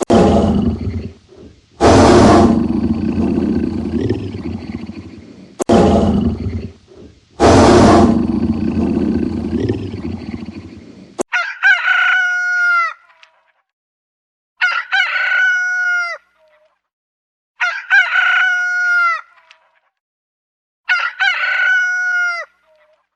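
Four loud, harsh animal calls, each trailing off, fill the first half. Then a rooster crows four times, about three seconds apart.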